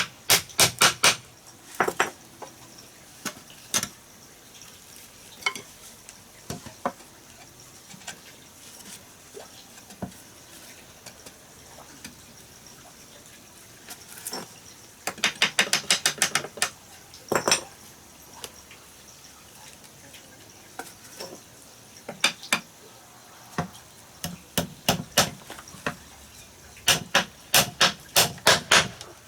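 Sharp knocks and clicks of hard objects striking, coming in quick runs of several a second with single knocks in between.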